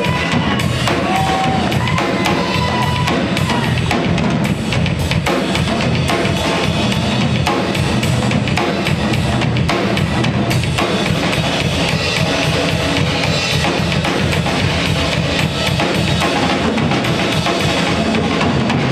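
Live drum kit solo: a continuous, dense run of kick and snare hits with no break.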